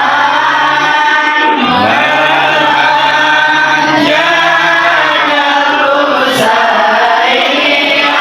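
A group of voices chanting a sholawat, a devotional song in praise of the Prophet Muhammad, in unison, with a steady low tone held beneath the voices.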